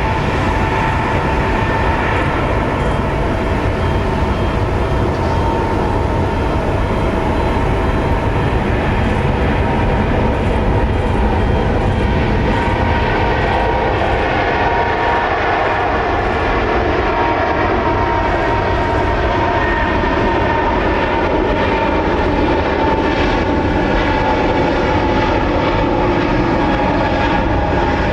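Jet airliner engines running close by: a loud, steady rumble under a high whine whose pitch drifts slowly.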